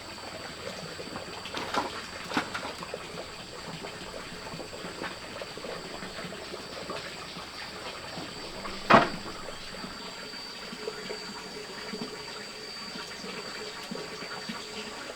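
Water running or pouring steadily, with two light knocks early and one sharp knock about nine seconds in.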